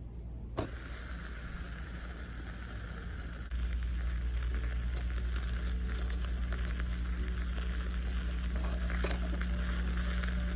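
Steak sizzling as it cooks over a fire, starting with a click about half a second in. Steady low background music sits underneath and gets louder about three and a half seconds in.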